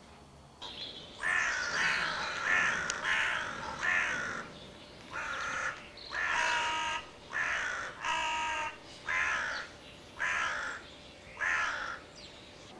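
Flambeau Squeeze & Play crow call, a hand-squeezed soft bladder with an internal reed, sounding a string of about ten harsh crow-like caws. The first few caws run together, then single caws follow about a second apart.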